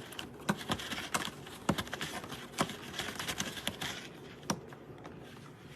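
Irregular light clicks and taps, several a second, thinning out after about four seconds.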